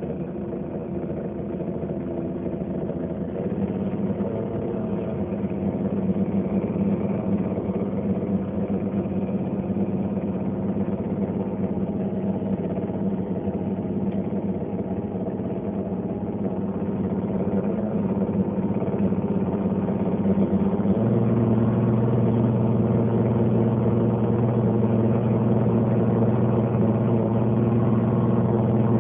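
LG dishwasher running with a steady droning hum. About three-quarters of the way through, a deeper hum sets in and the sound gets a little louder.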